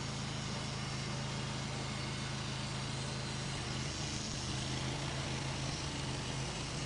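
Sawmill engine running steadily, a constant drone whose low tone shifts slightly about four seconds in.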